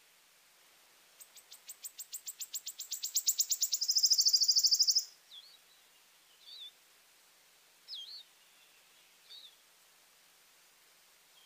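A wood warbler singing: a run of thin, high notes that start about a second in, quicken and grow louder, and end in a fast shivering trill. After the trill come four short, softer calls.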